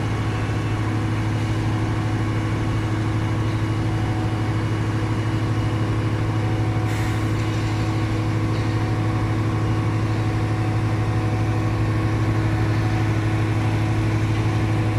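MAN TGS 33.480 truck's inline-six diesel engine running as a steady, even drone, with a short faint hiss about seven seconds in.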